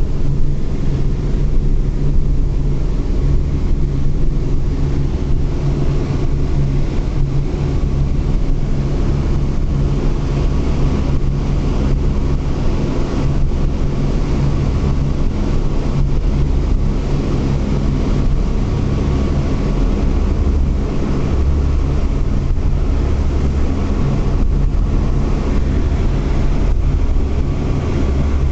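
Boeing B-17 Flying Fortress's Wright R-1820 Cyclone radial engines running at a steady loud drone.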